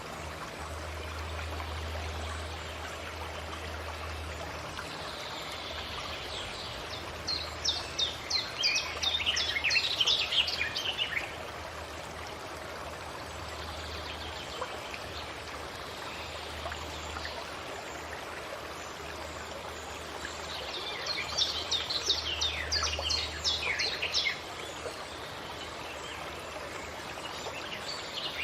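Forest ambience: a steady rush like running water, with a songbird singing two bursts of rapid, quickly falling high chirps, about a quarter of the way in and again about three quarters of the way in, and another starting at the end.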